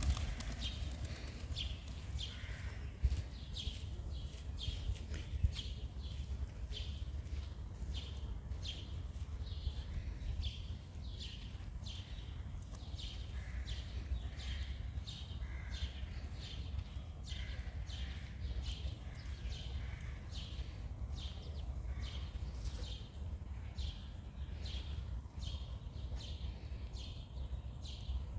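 Bird making a long, even series of short, sharp high ticks, about two a second, over a steady low rumble.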